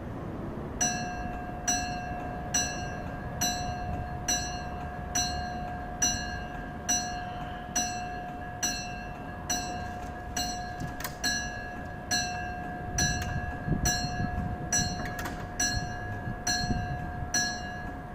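Old mechanical level crossing warning bell ringing, struck steadily a little over once a second, each strike ringing on into the next. It starts about a second in and keeps going through the crossing's warning sequence.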